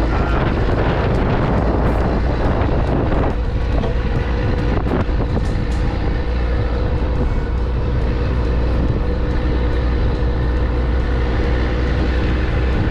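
Motor vehicle on the move: a steady low rumble of engine and road with a constant noisy hiss over it, easing slightly about three seconds in.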